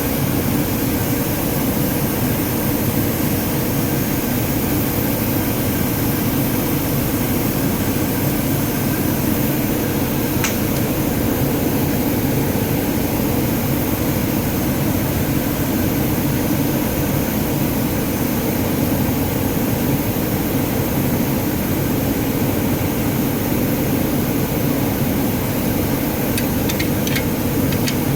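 Steady, loud mechanical drone with a faint steady tone in it. A single light click about ten seconds in and a few more clicks near the end.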